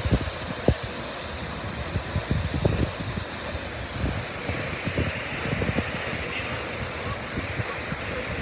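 Water rushing from a sheared-off fire hydrant: a steady, even hiss of spray. Wind buffeting the microphone adds low thumps.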